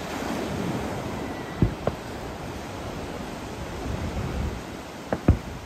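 Distant aerial fireworks going off as sharp bangs, two close together about a second and a half in and two more near the end, over the steady wash of surf breaking on the beach.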